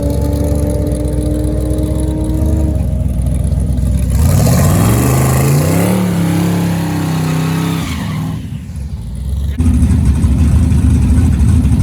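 Drag cars staged with engines running, then about four seconds in a hard launch: a twin-turbo LS V8 engine revs up loudly with a rising note as the car pulls off the line. The note holds, then fades at about eight seconds, and a steady low engine rumble follows near the end.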